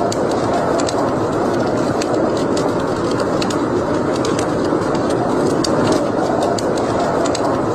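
Wood fire burning in a fireplace: a steady rush of flames with frequent small crackles and pops.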